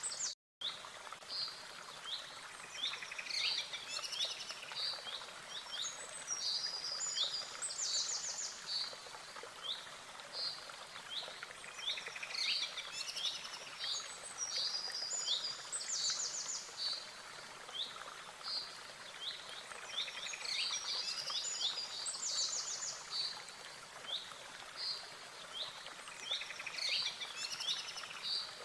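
Birdsong: many quick chirps and trills, with a pattern that comes round again about every eight seconds, like a looped recording. The sound cuts out briefly just after the start.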